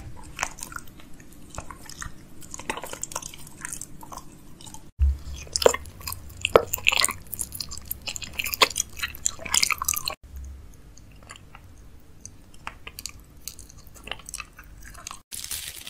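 Close-up chewing and crunching of candy, with crisp bites and mouth sounds, in a few short segments with abrupt cuts between them about five and ten seconds in.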